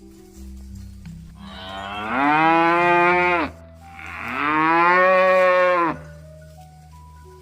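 Cow mooing twice: two long, loud calls of about two seconds each, each rising in pitch as it swells and then breaking off.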